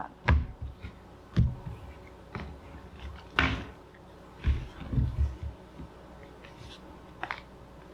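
Tabletop handling noises as a message card is drawn: a few soft thumps and knocks, with a brief rustle about three and a half seconds in.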